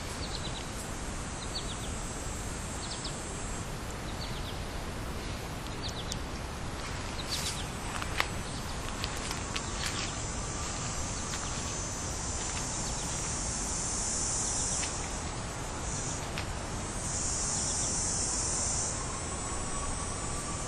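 Summer outdoor ambience: a steady high insect buzz that swells twice to a louder drone for a couple of seconds each, in the second half, with scattered short bird chirps over a steady low background rumble.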